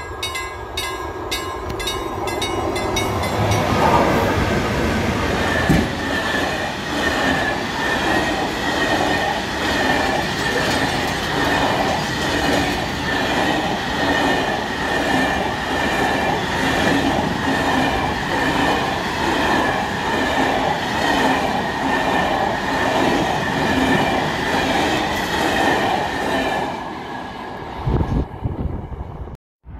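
Level crossing bell ringing fast and evenly. A freight train of empty log wagons then arrives and rolls past close by, its wheels clattering in a regular rhythm over the rail joints. The train noise stops suddenly near the end as the last wagon passes.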